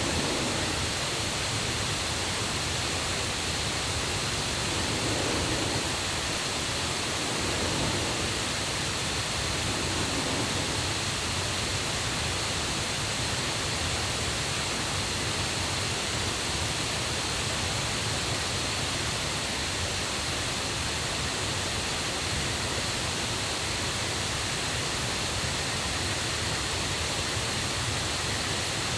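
Steady, loud rush of a forest river and waterfall running high after the previous day's rain.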